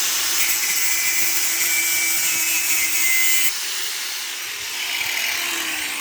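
Metalworking on the cart's steel pipe frame: a loud, steady hiss of work on metal that cuts off sharply about three and a half seconds in, followed by quieter noise.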